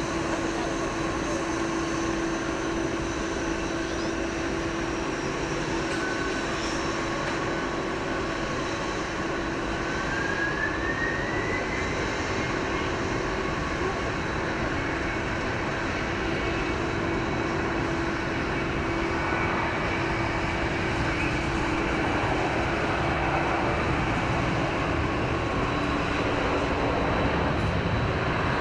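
Jet airliner engines running steadily with a high whine, one tone rising in pitch about ten seconds in; the sound grows slightly louder toward the end.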